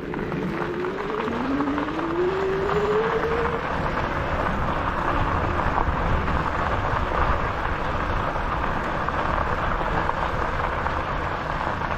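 E-bike on the move: steady wind and tyre noise, with a whine that rises in pitch over the first few seconds as the bike speeds up.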